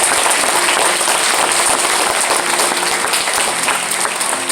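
Church congregation applauding, many hands clapping together in a dense, steady applause that eases slightly near the end.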